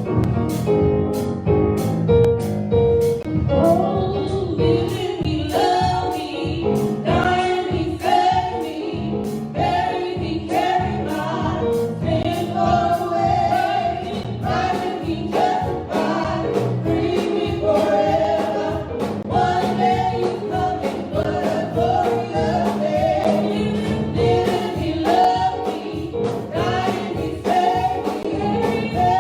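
Gospel choir singing with a band behind it, driven by a steady beat.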